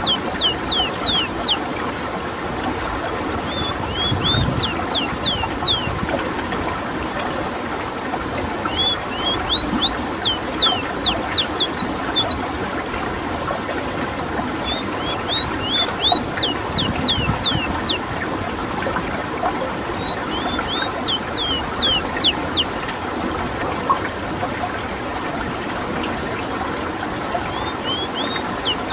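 Ruddy-breasted seedeater (rowti) singing: short phrases about every five seconds, each a quick run of high, sharp down-slurred notes, over a steady background hiss.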